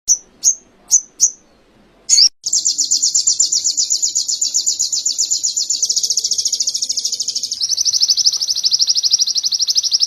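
Songbird singing canary-style song: four short high chirps, then, after a brief pause, a long fast trill of rapidly repeated high notes that switches to a new, slightly lower trill about three-quarters of the way through. This is the sogon song with canary phrases used as a masteran tutoring recording.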